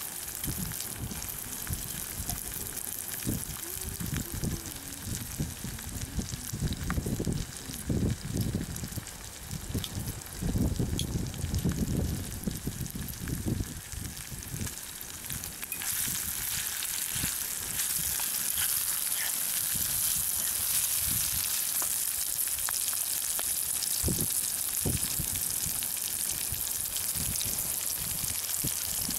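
Drumstick pieces, sliced onions, mustard seeds and boiled eggs sizzling in hot oil in a pan, a steady hiss that grows louder about halfway through and then holds. Low irregular thumps and rumbles sound under it in the first half.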